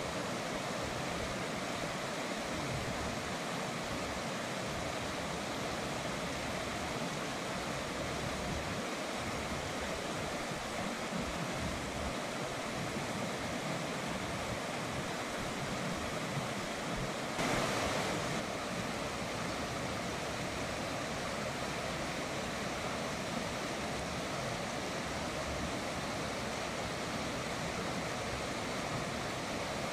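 River water flowing, a steady rushing noise, with one brief louder surge a little past the middle.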